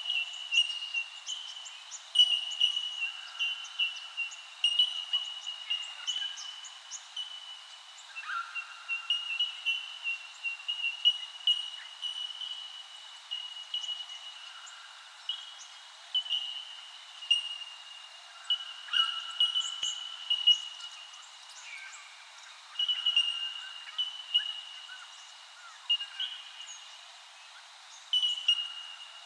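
Birds calling outdoors: many short, repeated chirps and sharp high calls over a steady high-pitched tone.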